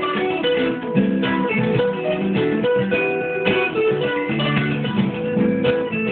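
Guitar music: a run of plucked notes and chords on what sounds like an acoustic guitar, played continuously.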